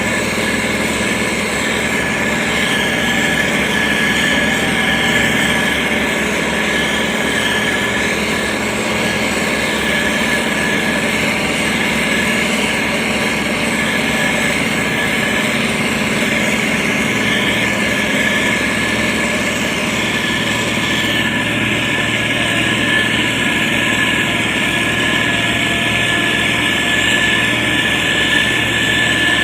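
SANY STG190C-8S motor grader's diesel engine running steadily, with a steady high whine over it. A hiss in the upper range grows louder about two-thirds of the way through.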